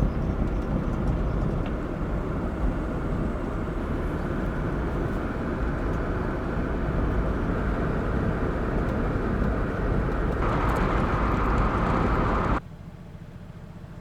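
Steady rumble of a car on the move, road and engine noise, that cuts off abruptly near the end to a much quieter background.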